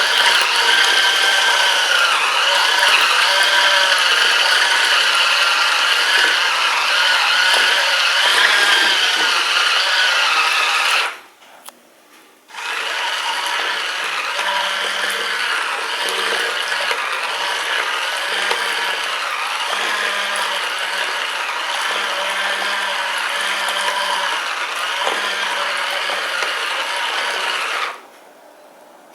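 Electric motor of a mini washing machine running with a whine that wavers in pitch. About eleven seconds in it stops for a second or so, then starts again a little quieter, and near the end it cuts off.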